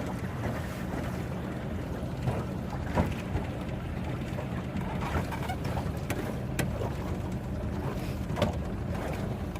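Boat engine running steadily under a low hum, with wind and water noise and a few sharp clicks.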